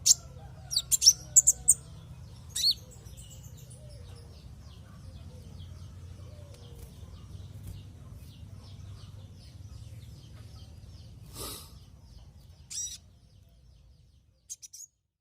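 Konin (kolibri ninja) sunbird calling: sharp, high chirps come thick and loud in the first few seconds, then a faint, rapid twittering runs on, with a few more chirps near the end. A low hum sits underneath, and the sound cuts off just before the end.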